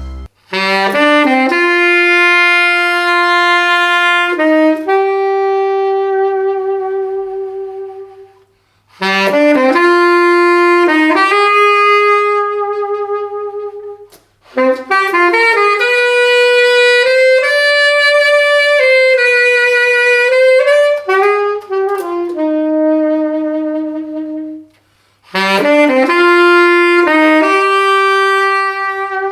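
Solo saxophone playing a slow melody in four phrases with short pauses between them, ending phrases on long held notes with vibrato.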